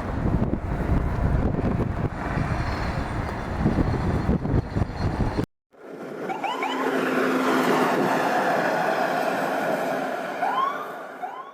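Strong wind buffeting the microphone in gusts. After a sudden cut, a steadier rush of wind comes in, with a low hum and a few short rising whistling tones.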